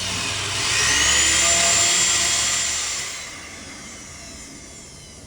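Vacuum cleaner motor whining up to speed about half a second in and running with a high steady whine, then switched off about three seconds in and spinning down, sucking a piece of plastic up through a trolling motor shaft.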